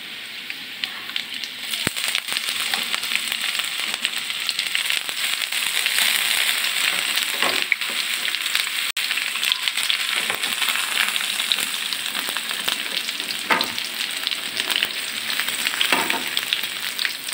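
Sliced hotdogs, onion and garlic frying in hot oil in a wok. The sizzling grows louder about two seconds in as the hotdogs go into the oil, with a few scrapes of the spoon stirring.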